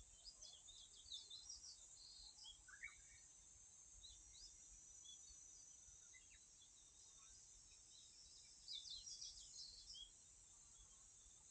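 Faint outdoor ambience: small birds chirping in quick runs of short high notes, once in the first couple of seconds and again around nine seconds in, over a steady high hiss.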